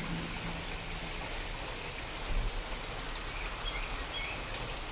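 Steady rain from a real storm, falling as an even hiss over a low rumble. A low held tone fades out about a second in, and a few short high chirps come in near the end.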